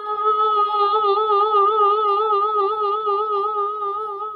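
Empty crystal wine glass sung by a wet finger rubbed around its rim, giving one steady ringing tone near A flat. From about a second in the tone wobbles slightly and regularly in pitch.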